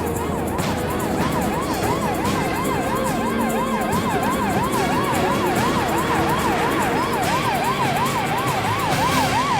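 Police car siren in a fast yelp, its pitch rising and falling about three times a second without a break, over the noise of cars on the road.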